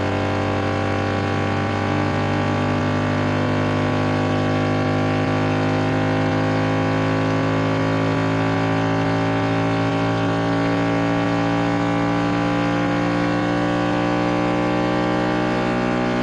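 Speaker-cleaning 'water eject' tone track: a dense chord of many steady electronic tones, strongest in the low range, with some higher tones slowly gliding in pitch. The sound is meant to vibrate a phone speaker's diaphragm so it shakes out trapped water.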